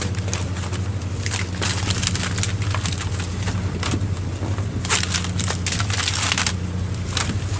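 A fishing boat's engine drones steadily, overlaid by dense, irregular crackling and clattering.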